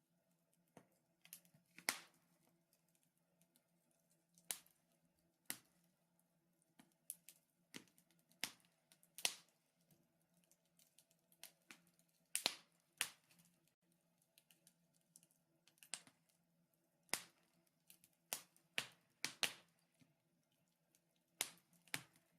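Wood fire crackling in a fireplace: irregular sharp pops and snaps, some louder than others, with no steady rhythm.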